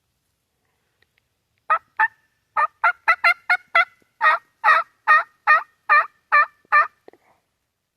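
Hunter's turkey call imitating a hen: a run of about fifteen sharp yelps starting a little under two seconds in, faster cuts in the middle, then steadier, evenly spaced yelps that stop shortly before the end.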